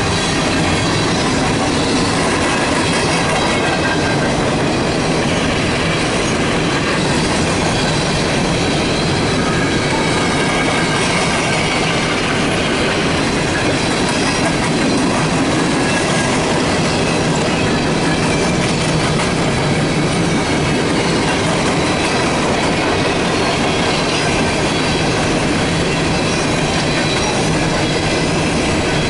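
Empty CSX coal gondola cars rolling past close by, with a steady rumble and clatter of steel wheels on the rails.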